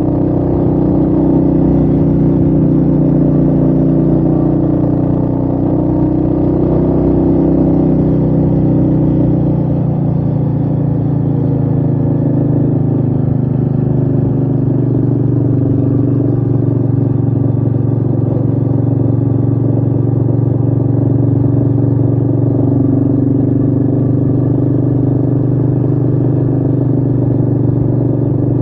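Royal Enfield Meteor 350's single-cylinder engine running steadily while the bike is ridden, heard from the rider's chest with wind noise. The low rumble eases and the engine note shifts slightly about ten seconds in.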